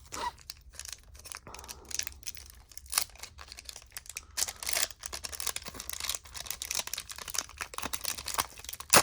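Basketball trading cards and their pack wrapper being handled: rapid irregular rustling, crinkling and scraping of cards sliding against each other. There is a sharp click near the end.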